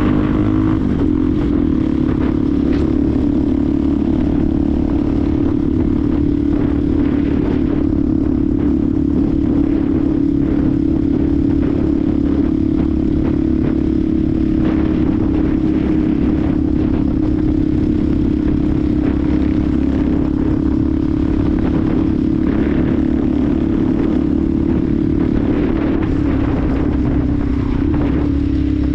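Benelli TNT 125's single-cylinder engine under way on the road. The revs drop in the first second, then hold steady at a cruise.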